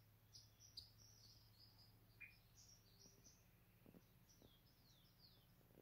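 Faint, high-pitched bird chirps: a rapid run of short notes, then a few falling chirps near the end, over a low steady hum.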